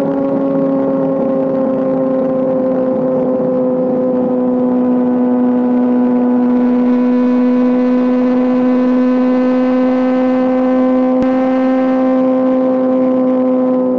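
Honda CBR600RR inline-four engine held at a steady high rpm through a GPR Deeptone aftermarket exhaust, its pitch nearly level with a slight downward drift. A single sharp click comes about eleven seconds in.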